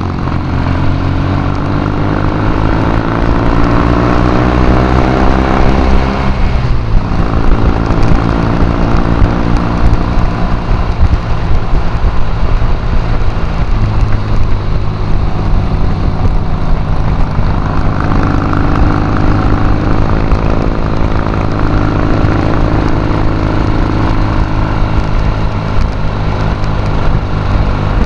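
Triton café racer's Triumph parallel-twin engine under way, its pitch rising steadily as the bike accelerates for about six seconds, then dropping sharply at an upshift and running steadily at road speed.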